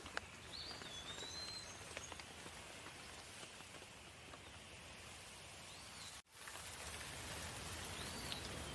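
Steady rain falling, with scattered drops ticking, and a bird giving a few short high chirps. The sound cuts out for an instant just past six seconds in.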